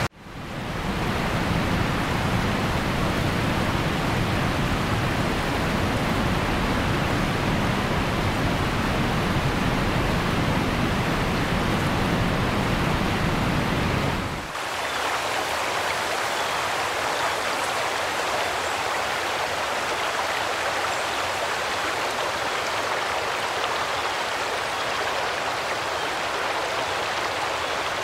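Heavy rain pouring down in a steady hiss. About halfway through, the deep rumble beneath it cuts out, leaving the rain hiss alone.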